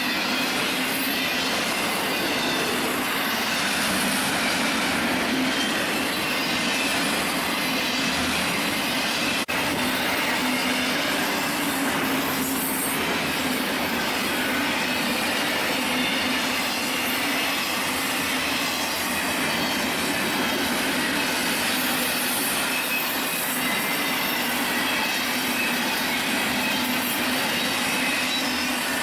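Union Pacific train cars rolling steadily past, with continuous wheel-on-rail noise and a faint high squeal from the wheels.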